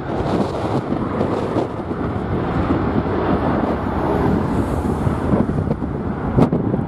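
Strong wind buffeting the microphone: a loud, churning rumble that rises and falls with the gusts. A sharp knock about six seconds in.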